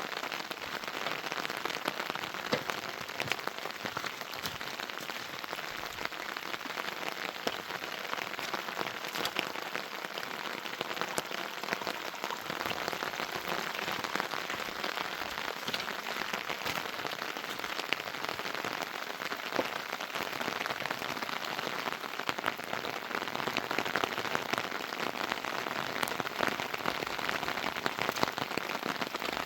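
Heavy rain falling steadily, with many individual drops ticking through the hiss.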